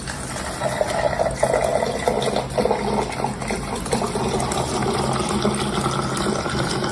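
Steady running or pouring water with a low hum beneath it.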